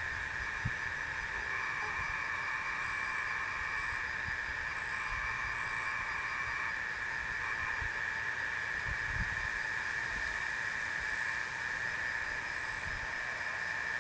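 Steady, high-pitched trilling of night insects, unbroken throughout, with a few faint low thumps underneath.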